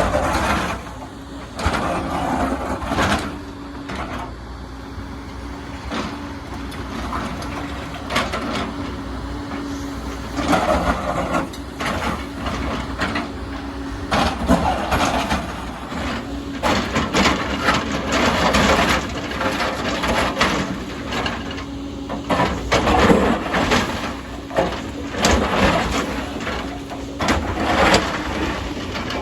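Excavator working: its diesel engine runs steadily under load while the bucket scrapes and knocks through soil and stones again and again.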